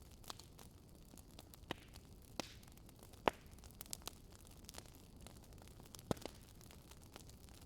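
Fireplace fire crackling: sparse sharp pops and snaps over a low steady hiss, the loudest pop about three seconds in and another just after six seconds.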